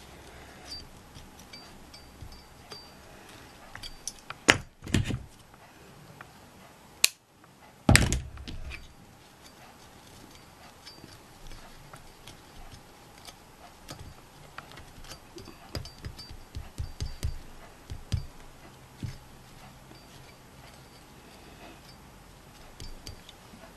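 Small clicks and taps of objects being handled on a work table during gluing, with a few louder sharp knocks about four and a half, seven and eight seconds in.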